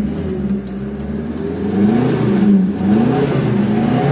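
A 2001 Daihatsu Espass van's engine running, steady at first, then revved in several quick throttle blips from about halfway, its pitch rising and falling each time. Its running is smooth and even, as the seller says.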